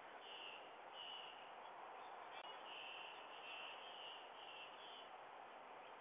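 Faint string of short, high chirps from a bird over a steady background hiss, ending about five seconds in.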